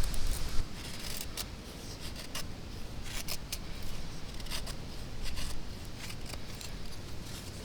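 Scattered light clicks and scrapes, a dozen or so irregular sharp ticks over several seconds, over a faint low rumble.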